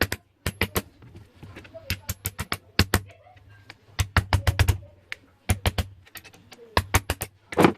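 Sharp clicks and taps of small hard objects, coming in quick clusters, over a low steady hum, with a louder knock near the end.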